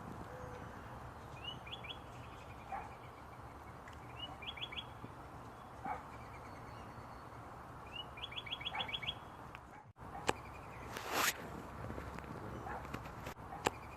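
A small songbird sings the same short phrase three times, each a brief rising note followed by a quick run of chips, a few seconds apart. About ten seconds in the sound cuts, and a loud rushing noise follows.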